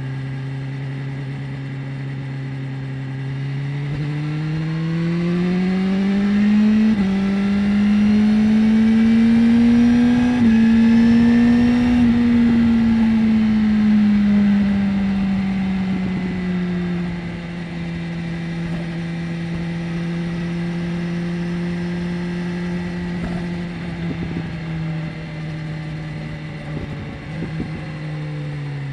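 BMW S1000R's inline-four engine on the move: it runs steadily, then pulls up in revs through two quick upshifts, each a short dip in pitch, before easing off to a steady cruise for several seconds, and the revs fall again near the end.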